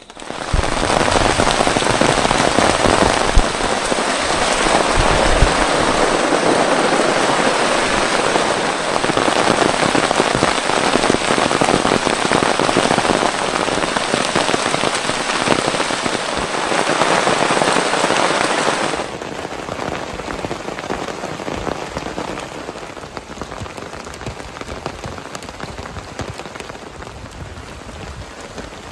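Heavy rain coming down hard in a dense, steady hiss, with low thumps in the first few seconds. About two-thirds of the way through it drops suddenly to a softer, lighter rain.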